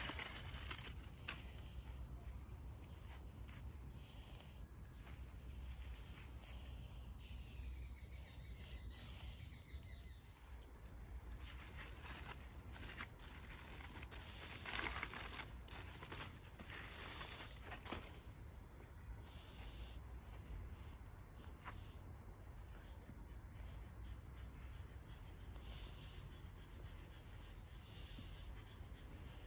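An insect chirping in a steady run of short high pulses, with several bursts of rustling about halfway through.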